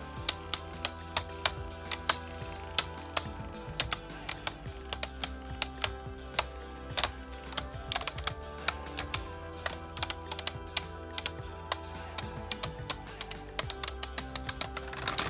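Two Beyblade tops, one a custom 3D-printed top, spinning and clashing in a stadium: rapid, irregular sharp clicks of the tops striking each other, several a second.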